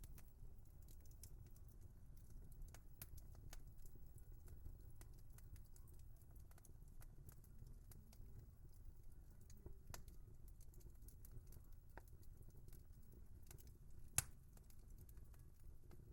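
Wood fire crackling faintly: scattered small snaps and pops over a low rumble, with one sharper pop about fourteen seconds in.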